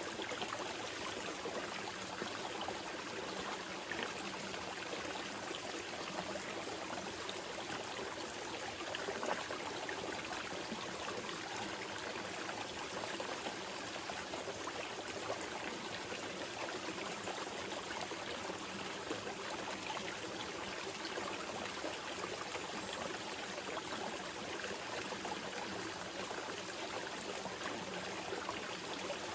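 Small river flowing steadily over rocks, a continuous gentle rush of water with fine splashing and trickling.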